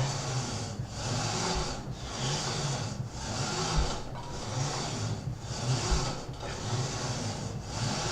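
Gym cable machine in use during repeated cable crunches: the cable runs through its pulleys in a steady back-and-forth rhythm, about once a second, with a low thud roughly every two seconds as the 60 kg weight stack moves at the end of each rep.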